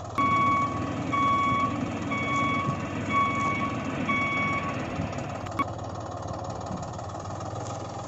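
Electronic reversing beeper sounding five even beeps on one tone, about one a second, then stopping; a single click follows a second later.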